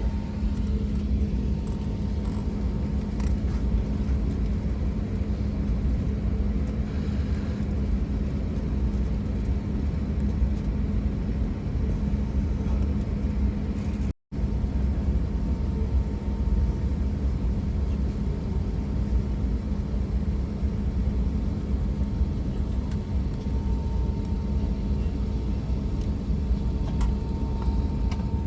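Steady low rumble of an airliner cabin with a constant hum, dropping out for an instant about halfway through.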